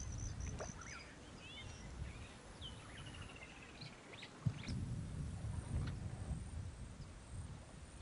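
Wild birds calling: scattered short chirps and quick gliding whistles, with a brief rapid trill about three seconds in, over a low rumbling background. A single sharp knock about halfway through.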